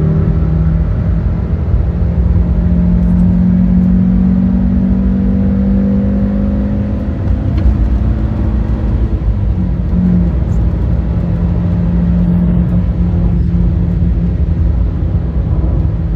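The Fiat Stilo Abarth's 2.4-litre 20-valve five-cylinder engine running under steady load while driving, its pitch climbing slowly for the first several seconds, dipping briefly a little past halfway, then holding steady, over continuous road rumble.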